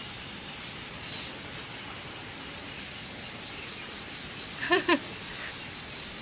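Insects chirping in a steady, high, pulsing chorus. About five seconds in, a short pitched vocal call, a brief voice or animal cry, rises above it.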